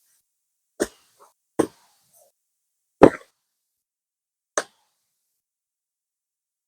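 Four sharp knocks spaced about a second apart, the third the loudest, with silence between them.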